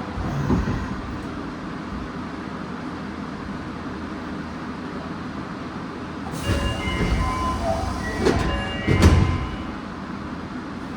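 Nagoya Municipal Subway 2000-series train running, heard from on board as a steady rumble. From about six to nine seconds in, a louder stretch of high squealing tones and rattling clatter rises over it.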